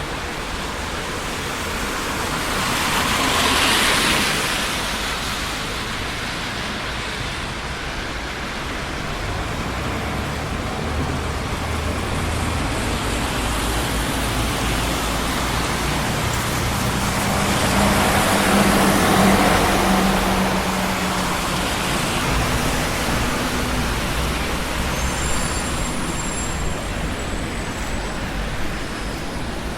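Continuous traffic noise of a busy city street, made of tyre and engine sound from passing cars. One vehicle swells past about four seconds in, and a louder one with a steady low engine hum passes around eighteen to twenty seconds in.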